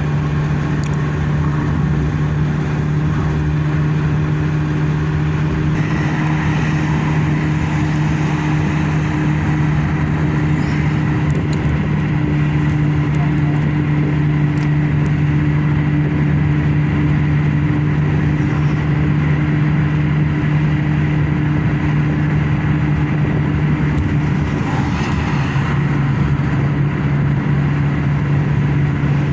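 Car driving at a steady speed: a steady low engine drone over an even hum of road and tyre noise. The drone shifts slightly near the end.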